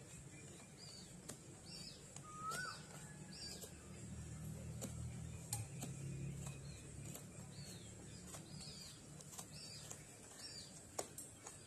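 Birds chirping faintly in short high notes, repeated many times, with one rising whistled call a couple of seconds in. Scattered soft clicks are mixed in, one of them the loudest sound, about halfway.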